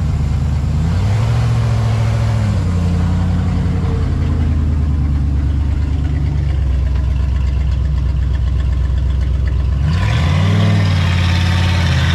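1990s Ford truck's engine running just after a cold start. About a second in it steps up in speed and holds there, then near the end it briefly revs up and settles back, with a hiss joining it.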